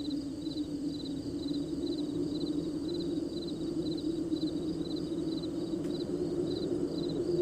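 Crickets chirping at night, a steady rhythm of pulsed chirps a little over two a second, over a steady low drone.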